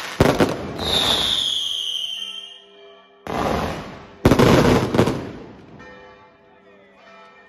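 Fireworks going off: a loud burst at the start, a whistling firework falling in pitch about a second in, then two more loud bursts around three and four seconds. Music becomes audible under the fading bangs toward the end.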